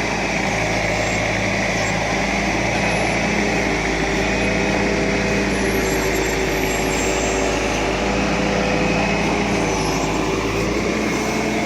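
ACE AX 130 backhoe loader's diesel engine running steadily at working revs, with a fainter higher whine above it.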